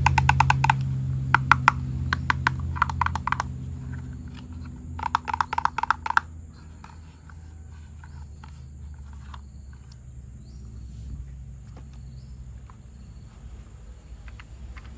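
A small battery toy motor hums and winds down over the first few seconds, with several short bursts of rapid clicking. After about six seconds only faint scattered ticks remain.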